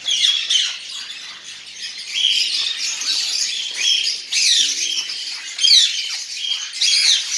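Many caged birds chirping and squawking together: a dense, overlapping chorus of high-pitched calls, many of them quick falling sweeps.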